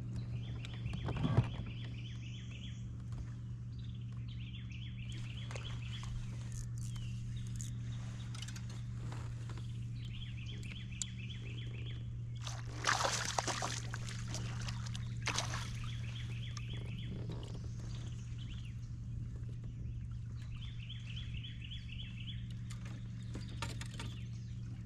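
A songbird sings the same short, fast trilled phrase about every five seconds, over a steady low hum. There is a brief noisy rush about thirteen seconds in.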